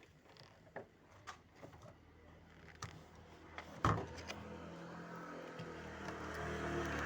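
Small metal clicks and taps from work on a refrigerator door and its hinge, with a loud knock about four seconds in. After the knock a steady droning hum rises and grows louder.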